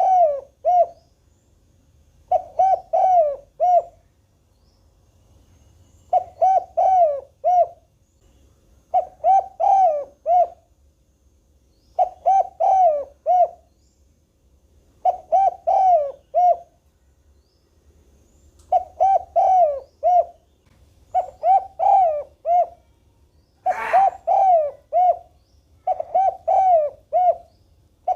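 Spotted dove cooing: a phrase of three or four low notes repeated about every three seconds. A single sharp click comes about two-thirds of the way through.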